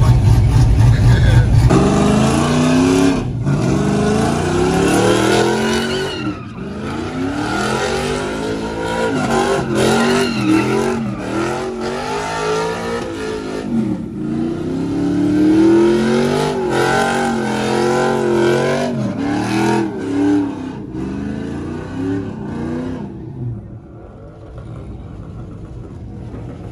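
Car engine revving hard again and again, its pitch climbing and falling every second or so, after a deep steady rumble in the first couple of seconds. The sound drops away about 23 seconds in.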